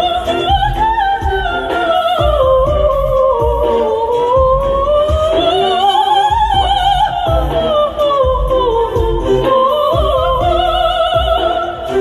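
Operatic soprano singing held, sliding notes with wide vibrato over an accompaniment with a regular low beat.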